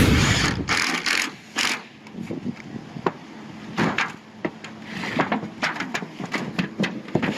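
Scattered light knocks and clicks on a sheet-metal roof as a patch is worked on, irregular and unhurried, after a loud rustling burst in the first second.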